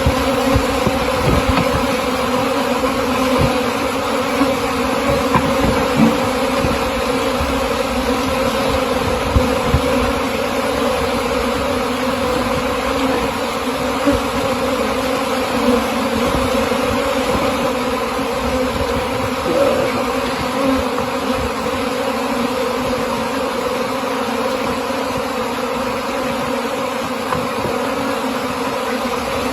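Many honeybees buzzing together in a steady, dense hum, with a few low rumbles in the first ten seconds.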